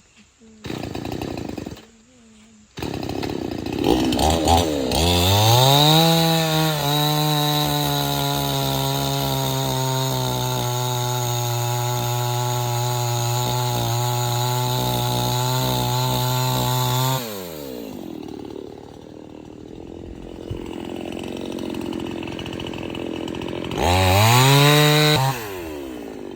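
Chainsaw revved up to full throttle, then held at a steady, slightly lower pitch for about ten seconds as it saws through wood, then let back down to idle. It gives one more short rev near the end.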